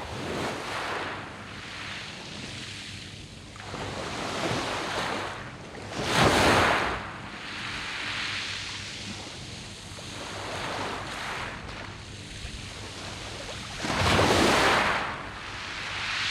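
Sea waves breaking and washing on a round-pebble beach, rising and falling in surges, with two louder breakers about six and fourteen seconds in.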